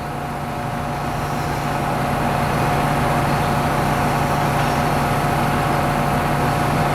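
Diesel-electric freight locomotive engine running with a steady hum, growing louder over the first three seconds and then holding steady.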